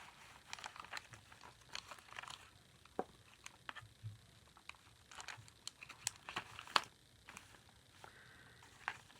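Paper rustling and crinkling as handmade journal pages and envelopes are handled and turned, with scattered small clicks and taps throughout and one sharper snap near the middle.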